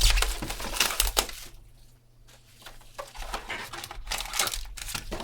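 Trading-card packaging being handled: crinkling plastic wrap and rustling card stock in irregular scratchy bursts, with a short lull partway through.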